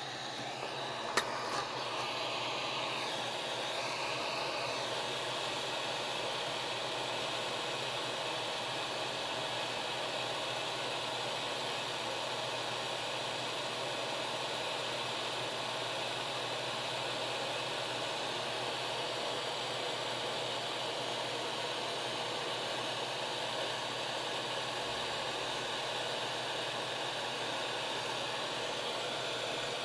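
Hot air soldering gun blowing a steady hiss of air, with a sharp click about a second in.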